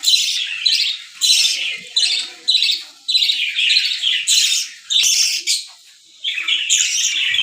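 Baby birds giving high, harsh begging calls over and over, about one call a second, as they are spoon-fed.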